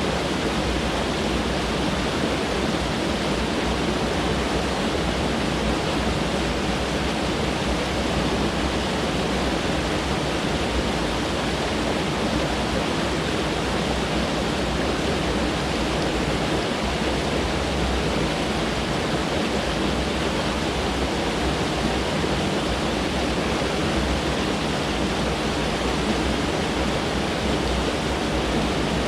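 Mountain stream rushing over rocks: a steady, even rush of water without a break.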